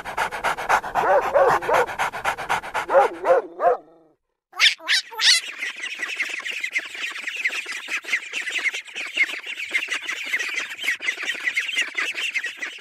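Dog panting rapidly with short whines. After a brief silent cut, a dense stream of rapid high-pitched squeaks follows.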